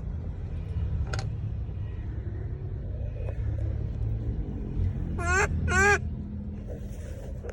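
Two short pitched calls from a monkey about five seconds in, one right after the other, each bending up and down in pitch, with a fainter call about a second in. A steady low rumble runs underneath.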